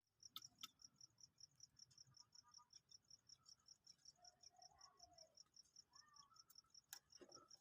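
Faint, even high-pitched chirping at about five pulses a second, with a few soft clicks and some faint short peeps near the middle.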